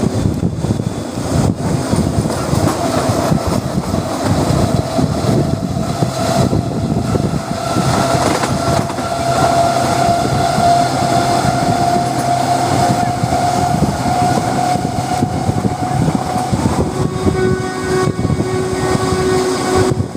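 Passenger train running on the track with a steady rumble. A long tone holds over most of the sound, slowly rising a little in pitch before fading out, and a lower tone comes in near the end.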